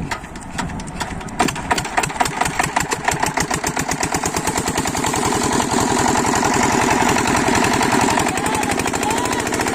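Single-cylinder 8 hp diesel engine of a water pump set starting up: a few slow, separate firing strokes, then the beats speed up and it settles into a fast, even, steady knocking run.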